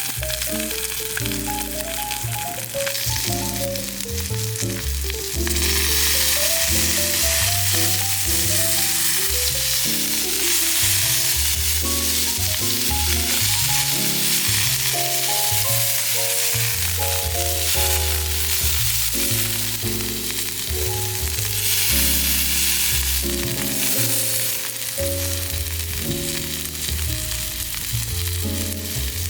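Marbled beef steak sizzling on a hot iron plate, the sizzle growing louder about five seconds in and easing near the end, under background music.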